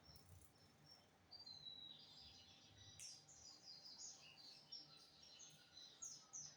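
Lined seedeater (bigodinho) singing faintly: a short whistled note about a second in, then a quick run of twittering chirps that lasts to the end.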